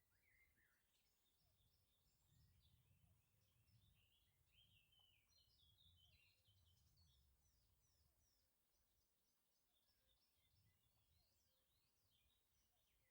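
Near silence, with very faint birds chirping and twittering in the background.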